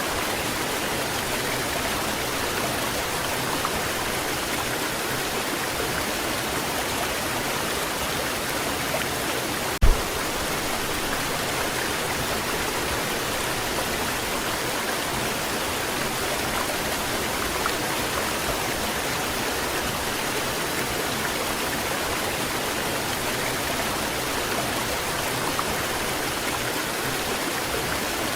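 Waterfall pouring: a steady rush of falling water, with one brief low thump about ten seconds in.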